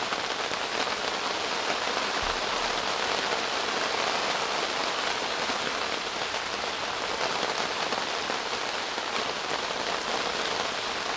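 Steady rain falling on the fabric of an REI Wonderland 6-person tent, heard from inside the tent.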